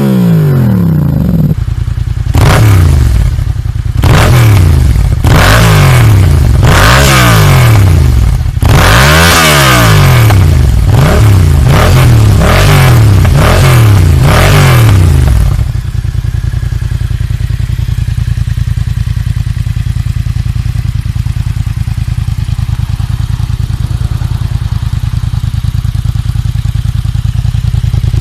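Yamaha MT-07's 689 cc parallel-twin engine with an aftermarket exhaust, revved repeatedly in quick blips, each rising and falling back. After about fifteen seconds it settles into a steady idle.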